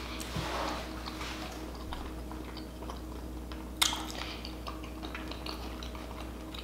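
Soft, close-up mouth and chewing sounds with scattered faint clicks and one sharper click about four seconds in, over a steady low hum.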